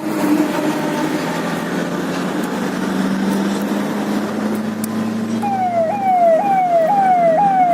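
Road noise with a vehicle engine running. About five and a half seconds in, a siren starts, a repeating falling wail that jumps back up about twice a second.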